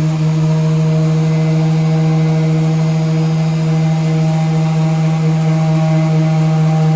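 Power sander running steadily at constant speed, a loud even hum with a buzzy edge and no change in pitch.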